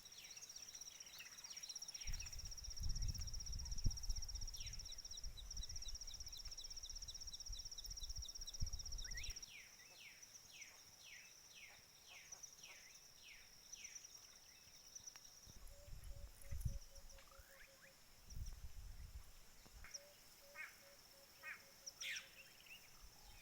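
Wild birds calling: high trills, then a quick run of about nine sharply falling whistled notes, and later two short series of low, evenly spaced notes. A steady high thin buzz runs underneath, and low rumbles come and go.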